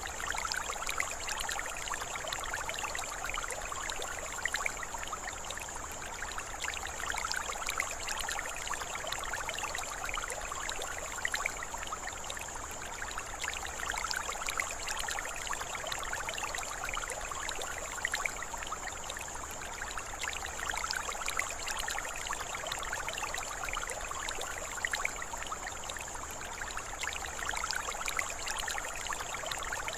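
Running water of a stream, trickling and splashing steadily, with a steady high-pitched hum above it.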